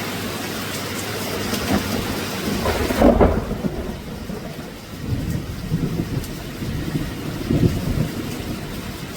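Steady rain with thunder rolling. The loudest rumble comes about three seconds in; after it the hiss of the rain thins and lower rumbles keep rolling.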